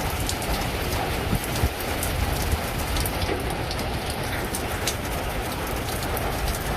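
Heavy hurricane rain falling steadily, with a low rumble of wind and scattered sharp ticks of drops striking close by.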